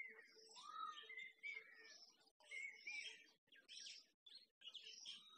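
Faint chorus of small birds chirping and calling, many short overlapping notes and quick glides, over a faint steady low hum.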